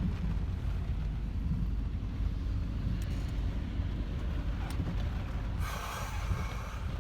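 Low, steady rumble of a Volvo 940 Turbo wagon running, heard from inside the cabin, with a short hiss lasting about a second, about six seconds in.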